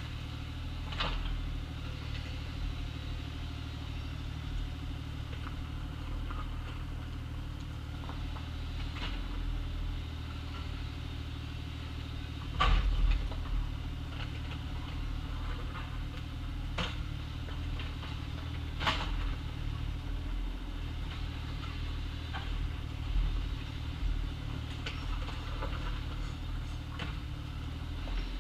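Compact excavator's diesel engine running steadily, with a few sharp knocks now and then, the loudest about halfway through.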